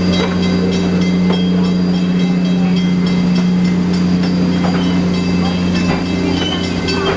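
GP38-2 diesel-electric locomotive running as it leads a passenger train, a steady low engine drone with a few faint clicks from the rolling train.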